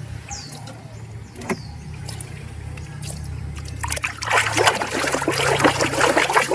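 Water trickling and splashing as a small plastic toy is washed by hand, with a few clicks and two short high falling squeaks in the first second and a half. The splashing grows denser and louder from about four seconds in.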